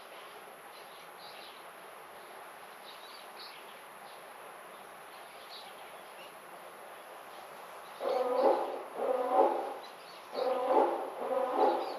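Faint high chirps of small birds, then from about two-thirds through a series of four loud animal calls, each under a second long and a little apart.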